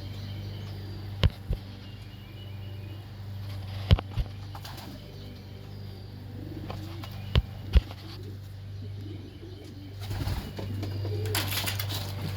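Pigeons cooing in a loft over a steady low hum, with sharp knocks in pairs three times, and a rush of wing flapping starting near the end.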